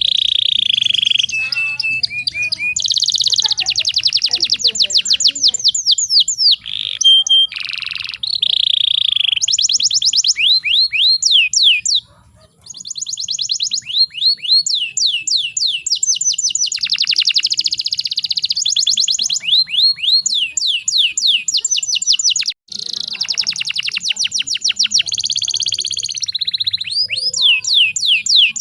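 Domestic canary singing continuously in fast trills and rolls of repeated high, sweeping notes, with two short breaks.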